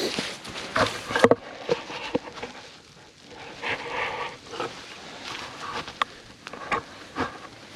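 Irregular snaps, clicks and rustles from a freshly lit campfire being tended: small kindling sticks crackling and being handled as the fire takes.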